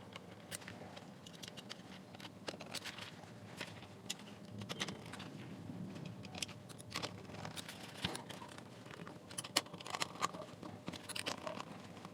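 Faint, scattered clicks and light rattles of hands working on a small plastic speaker housing while fitting a driver into it.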